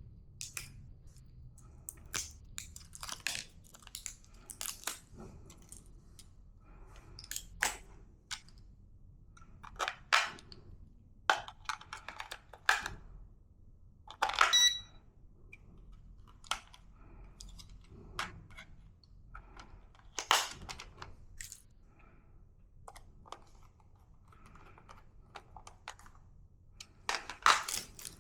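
Handling noises: irregular clicks, knocks and rustles of small objects being picked up and fitted, with one brief ringing clink about halfway through, as batteries and a plastic toy remote are handled.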